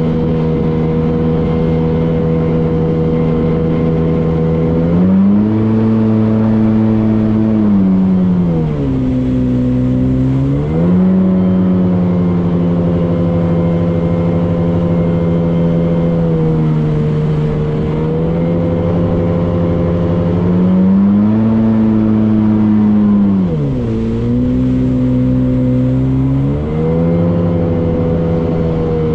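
Motorboat engine running under way, its pitch rising and falling several times as the throttle is opened and eased off.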